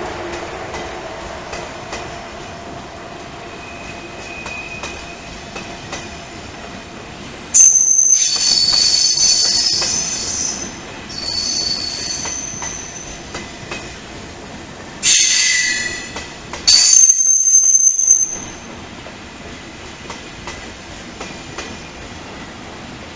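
Train wheels squealing on curved track as a train moves slowly through the points. Several loud, high-pitched squeals come and go from about a third of the way in until near the end, over a steady background rumble.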